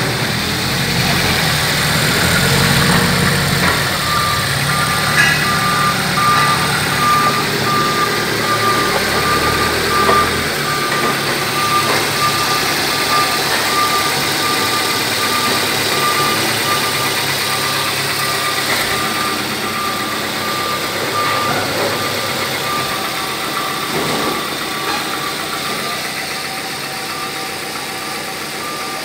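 Hyundai Coupe's 2.0-litre G4GC inline-four petrol engine idling steadily. A thin repeating beep, about two a second, runs over it from a few seconds in.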